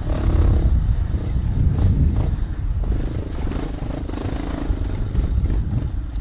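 Dual-sport motorcycle engine running while riding a dirt trail, its pitch shifting as the throttle changes, with a heavy low rumble and a few short knocks.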